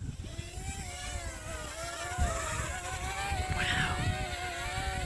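Small quadcopter drone's propellers whining as it flies, a steady, slightly wavering pitch that starts at once, with wind rumbling on the microphone.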